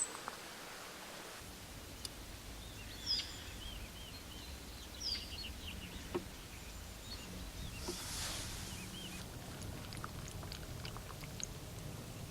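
Small birds chirping in short, scattered high calls over a steady low outdoor rumble, with a few faint clicks.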